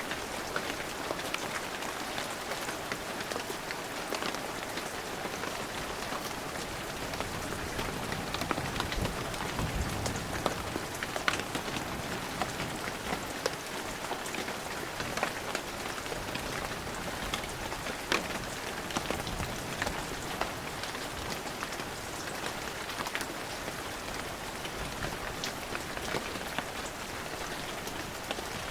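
Heavy rain falling steadily: a constant hiss with many separate drop hits standing out from it.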